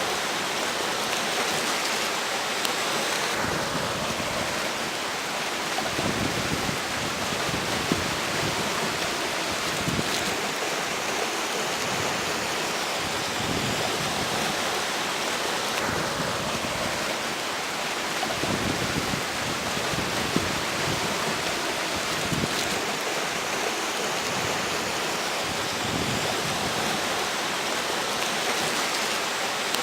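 River water rushing steadily while strong wind blows across the bank, its gusts coming and going as low rumbling surges.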